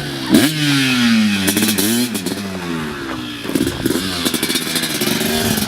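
Dirt bike engine revving. It jumps up sharply just after the start, its pitch drops and climbs again about twice as the throttle is worked, then it runs fairly steadily near the end.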